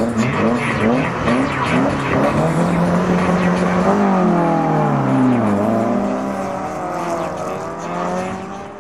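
Mk2 Ford Escort's engine revved in quick repeated blips, about two a second. It then accelerates away hard, its pitch climbing with two drops at gear changes. The sound fades as the car draws off.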